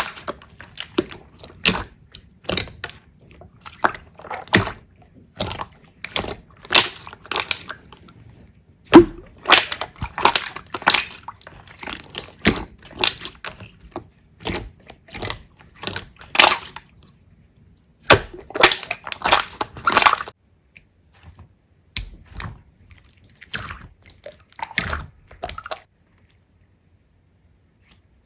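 Slime being squeezed and pressed by hand, giving irregular sharp crackling pops and clicks in clusters, with short pauses between them.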